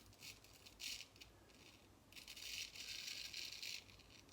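Japanese frameback straight razor scraping through lathered stubble: two short strokes, then a longer stretch of steady scraping from about two seconds in.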